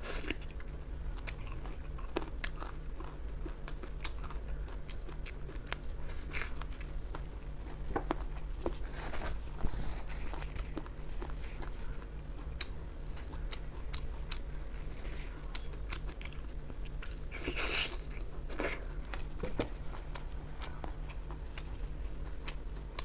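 Close-up chewing and crunching of braised pork ribs and their hard rib cartilage: a stream of small crisp cracks and mouth sounds, with a few longer crackly chews. A steady low hum runs underneath.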